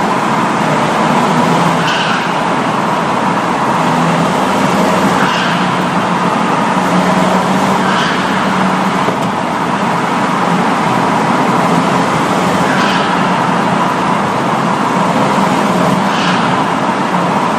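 Ford Mondeo TDCi diesel with its catalytic converter removed and a straight-through exhaust, running steadily through a tunnel: a loud, constant exhaust drone over road noise.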